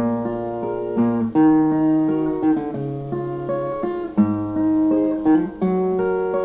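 Instrumental interlude on viola, plucked-string melody with bass notes moving under it, between sung verses.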